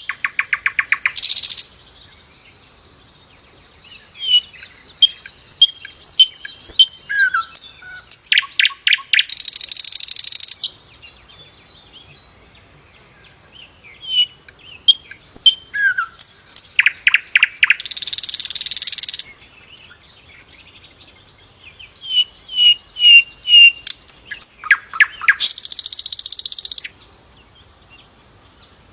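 Sikatan londo flycatcher singing vigorously: phrases of quick chirps, whistles and short trills, each ending in a harsh buzzing rattle lasting over a second. The phrase comes three times, about eight seconds apart, with short quiet gaps between.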